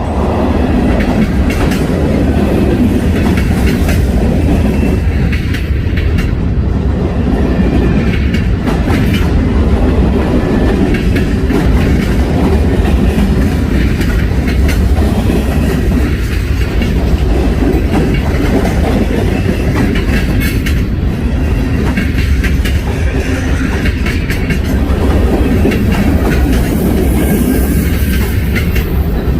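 Loud freight train cars rolling past, their wheels clicking over the rail joints in a steady clickety-clack over a low rumble.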